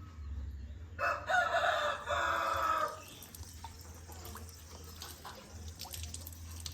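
A rooster crowing once, about a second in, a loud call lasting about two seconds.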